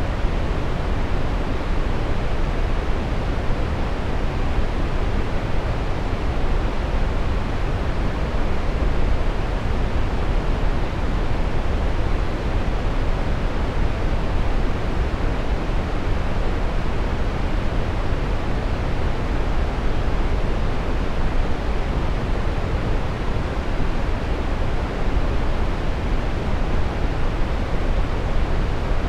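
Steady brown noise: a deep, even hiss with most of its weight in the low end, unchanging throughout.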